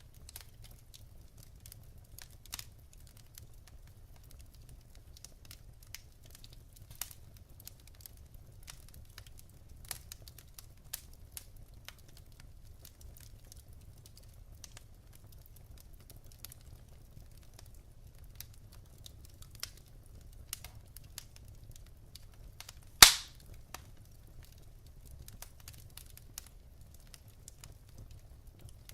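Wood fire in a fireplace crackling, logs giving off scattered small snaps over a faint low hum, with one much louder single pop about two-thirds of the way through.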